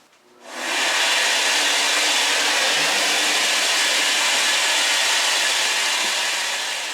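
Vacuum cleaner switched on about half a second in, its motor quickly coming up to speed and then running with a loud, steady rushing noise.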